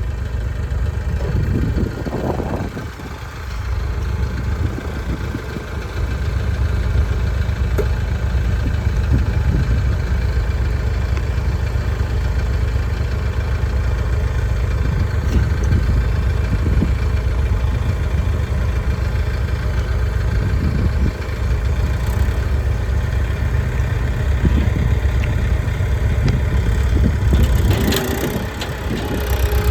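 Mahindra tractor's diesel engine running steadily while the box blade lifts and drags a junk car, with a few scattered clunks and creaks.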